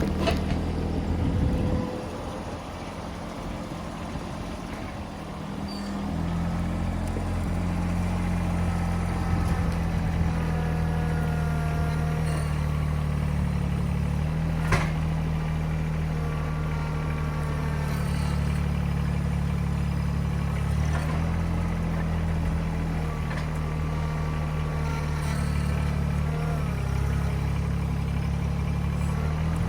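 Engine of heavy firewood equipment running steadily. It drops quieter for a few seconds near the start, then comes back up, and its note shifts slightly a few times as under changing load. One sharp knock comes about fifteen seconds in, with faint wavering whines above the engine.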